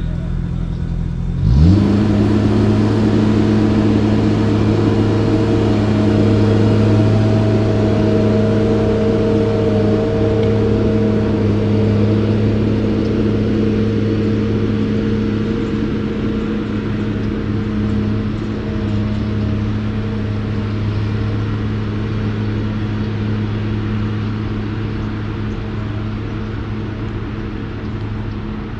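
A motor speeds up sharply about a second and a half in, then runs at a steady pitch with a constant hum, slowly fading.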